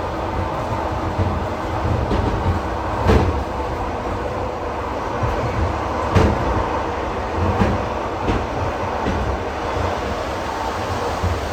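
ED4M electric multiple unit running at speed: a steady rumble and rush of the moving train, with a few sharp knocks of the wheels passing over rail joints.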